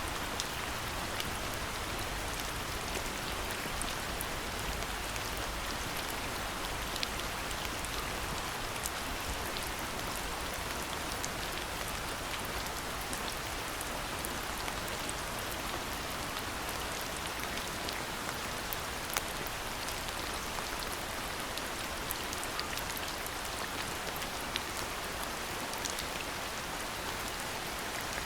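Steady rainfall, a continuous even hiss with many small, sharp drop taps scattered through it.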